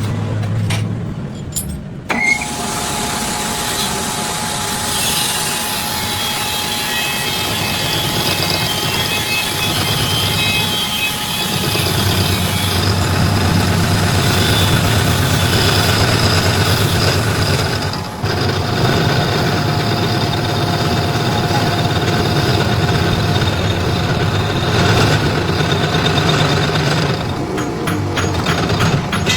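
A motor-driven machine running steadily with a constant hum, starting up about two seconds in and dipping briefly around eighteen seconds.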